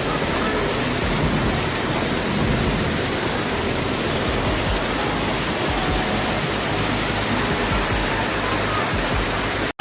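Steady, loud rushing noise of a typhoon storm, wind and rain together, that cuts off abruptly near the end.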